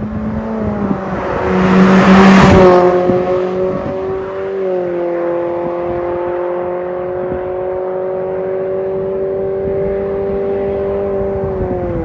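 Nissan Sentra's HR16DE 1.6-litre four-cylinder running through an MS-R valved cat-back exhaust. The exhaust note rises, with a loud rushing surge about two seconds in, then holds at a steady drone and drops away right at the end.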